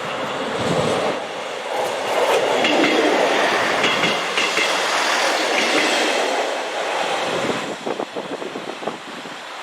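A train passing close by, its rumble swelling to a peak in the middle. Near the end come rapid clickety-clack beats of the wheels running over rail joints as it draws away.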